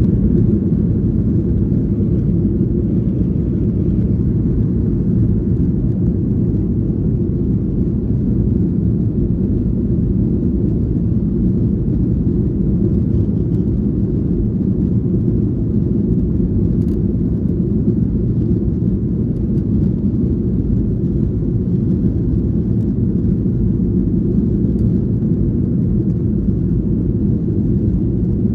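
Steady low rumble of a jet airliner's engines and airflow, heard inside the passenger cabin in flight.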